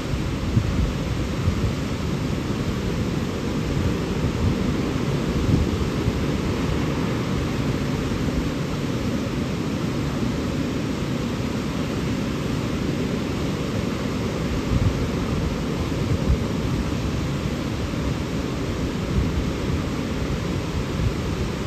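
Powerful rushing water, a steady, loud, deep rush. There are a few brief low bumps along the way.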